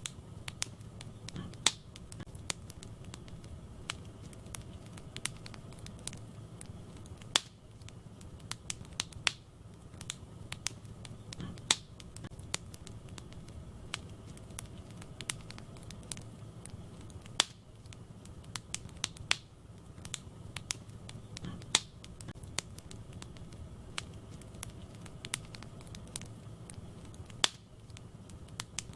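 Wood fire burning in a fireplace: irregular sharp pops and crackles from the burning logs over a steady low rumble of the flames.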